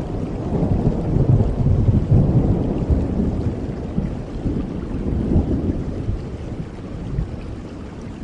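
Thunder rumbling in long rolls over steady rain. It swells about a second in and again around the middle, then fades toward the end.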